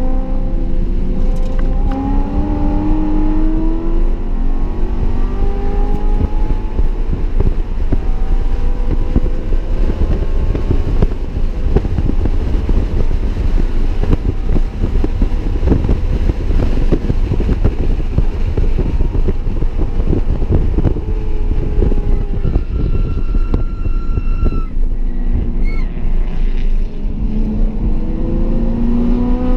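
BMW E92 M3's 4.0-litre V8, fitted with an aftermarket intake and X-pipe, heard from inside the cabin under hard acceleration. The revs climb in rising sweeps in the first few seconds, then there is a long stretch of rough, steady noise. The engine eases off about 25 seconds in and climbs again near the end.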